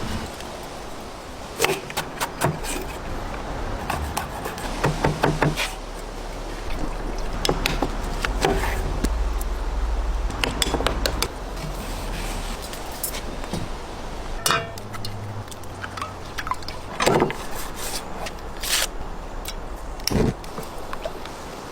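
Kitchen food-preparation sounds: scattered clicks, taps and knocks of utensils and cookware over a steady low hum.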